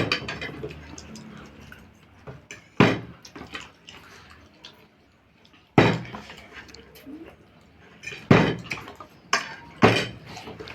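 A water bottle being flipped and landing again and again on a hard surface, about five sharp knocks a few seconds apart, with light clatter of dishes between them.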